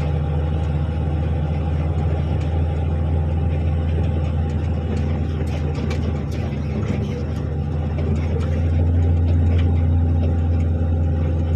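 Articulated dump truck's diesel engine running steadily with a deep drone, growing louder for a couple of seconds about eight seconds in.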